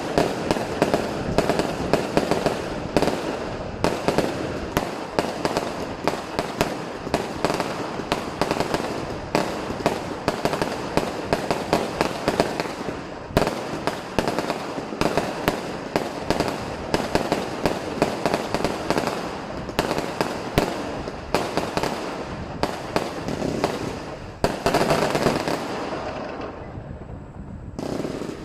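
Dense, continuous barrage of Chinese New Year firecrackers and fireworks, many sharp bangs a second overlapping into a constant crackle, thinning out and fading near the end.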